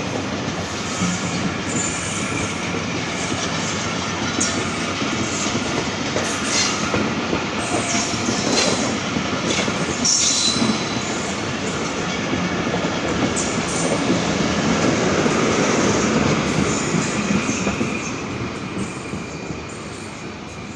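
Passenger express train's coaches rolling past at speed, wheels clattering over the rail joints with brief high wheel squeals. The noise fades over the last few seconds as the end of the train goes by.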